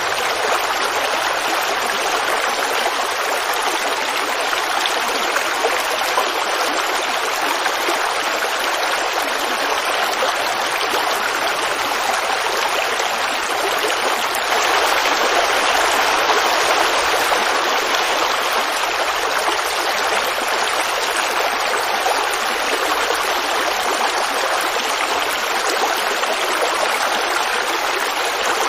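Creek water babbling over rocks, a steady rushing burble that swells a little for a few seconds in the middle.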